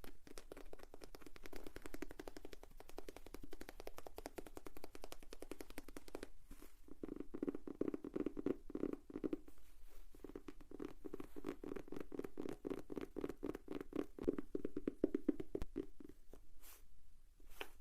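Rapid fingertip tapping on a notebook, a fast run of light taps with a few short pauses.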